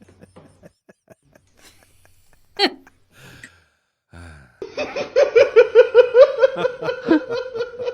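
Laughter in a quick run of pulses, about four a second, starting a little past halfway and lasting about three seconds. It follows a single short high cry about two and a half seconds in.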